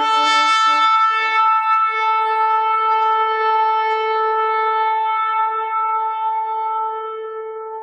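A shofar sounding one long, steady blast that fades out near the end.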